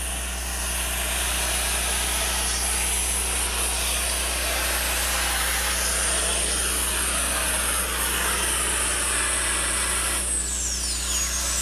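Three-engine modified pulling tractor running at full power down the track, with a high whine over the engine noise. Near the end the whine falls in pitch and the engines come off power.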